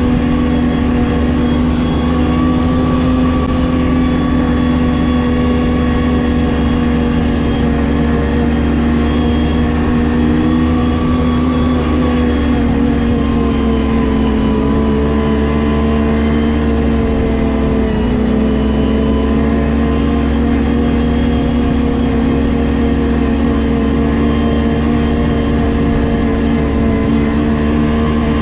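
Ski-Doo GSX 600 HO snowmobile's two-stroke twin engine running steadily at trail-riding speed. Its pitch dips slightly just past the middle, then holds steady.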